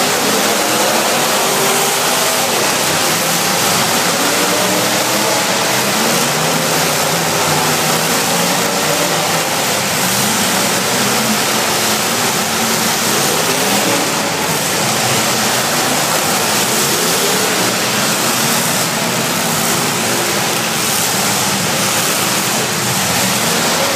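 Several demolition derby car engines running and revving at once, their pitches rising and falling over one another in a dense, constant roar.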